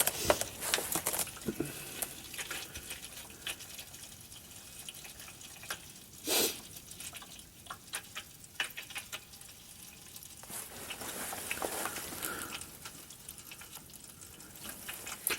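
Warm engine oil pouring from a pickup's drain hole into a drain pan, a steady faint trickle with small drips and splashes, and one brief louder noise about six seconds in.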